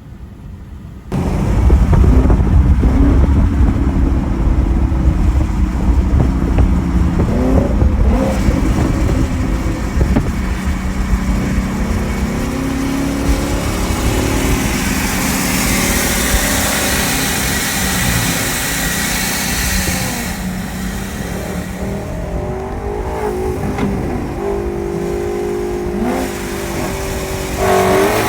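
V8 cars accelerating hard at full throttle in a roll race. The engines climb in pitch and step through gear changes over a heavy, steady low rumble, which starts abruptly about a second in.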